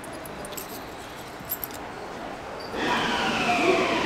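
Low station hum with a couple of light clicks, then, about three quarters of the way in, the electric motor whine of a train starts suddenly: several tones together, falling slowly in pitch as it slows.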